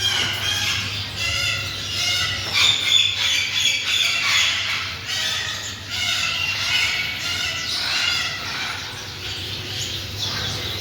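A dense chorus of caged birds squawking and calling over one another, with a steady low hum underneath.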